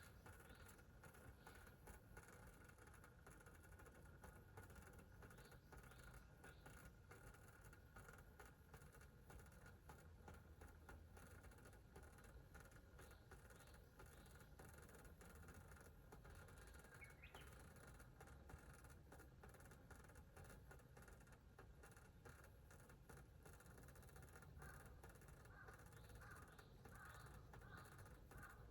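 Faint bird calls over a quiet outdoor background: a single call near the start, another about two-thirds of the way in, and a run of short repeated calls near the end.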